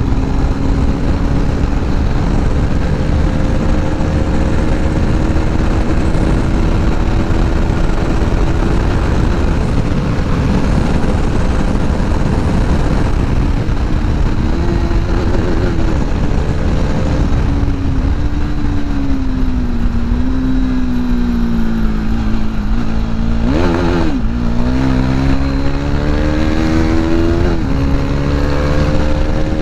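KTM RC 390 single-cylinder engine with a loud modified exhaust, pulling hard in fifth gear at high speed, with heavy wind rush over the microphone. The revs climb slowly, sag past the middle, give a quick sharp blip late on, then climb again.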